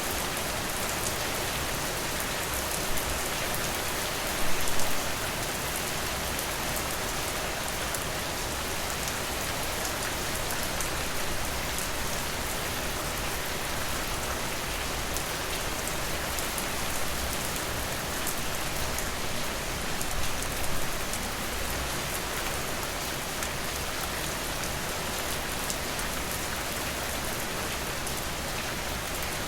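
Steady rain falling, an even hiss with scattered drop taps. Briefly louder twice, about four seconds in and again around twenty seconds.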